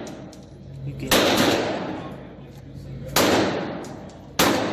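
Gunshots at a shooting range: three loud shots about one to two seconds apart, with a smaller one just after the first. Each shot leaves a long echoing decay.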